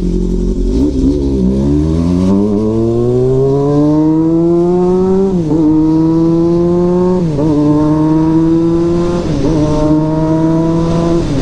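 400cc inline-four motorcycle engine accelerating through the gears: the engine note climbs for about four seconds, drops sharply at an upshift about five seconds in, then rises more gently with further upshifts about every two seconds.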